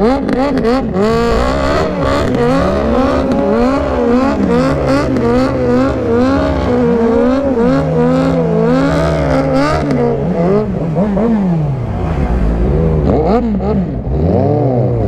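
A car engine revved hard up and down over and over, the pitch rising and falling about once a second, easing off for a few seconds near the end before climbing again.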